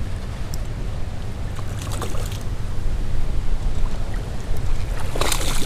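Steady rush of fast river current with wind rumbling on the microphone. A short louder burst of noise comes near the end.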